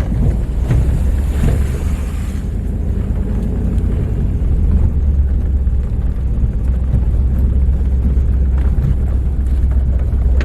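Truck driving slowly over a rough, bumpy dirt road, heard from inside the cab: a steady low rumble of engine and tyres, with occasional knocks and rattles from the jolts.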